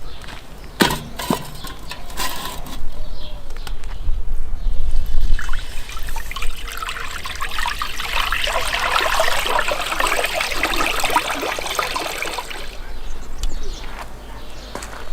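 A few sharp clinks of kitchen utensils, then liquid pouring into a vessel for several seconds, stopping near the end.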